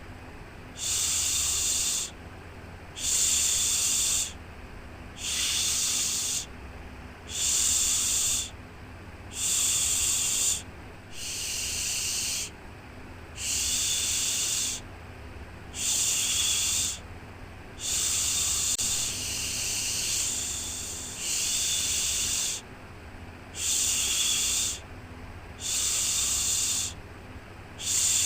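Rhythmic shushing, a 'shhh' repeated about once every two seconds with each shush lasting about a second, as used to soothe a baby to sleep. A faint steady low hum runs underneath.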